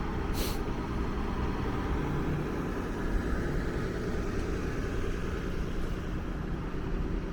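Steady low rumble of idling vehicle engines and traffic, with a brief hiss about half a second in.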